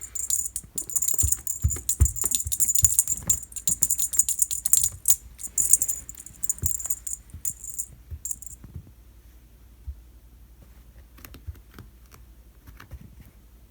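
A cat toy jingling and rattling in quick bursts of clicks as a cat bats and pounces on it, with a few soft thumps in the first two seconds. The jingling stops a little past halfway, leaving only faint scattered taps.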